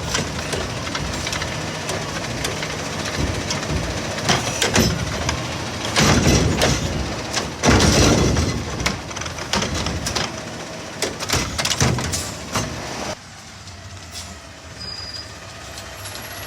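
Autocar garbage truck with a Heil body collecting trash: the engine runs under load while a bin is lifted and slammed against the hopper, with a string of loud bangs and metal clatters. The noise drops off suddenly about thirteen seconds in.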